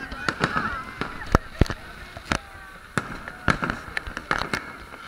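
Fireworks exploding: a dozen or so sharp bangs at irregular intervals, bunching together in the second half, over the voices of a large crowd.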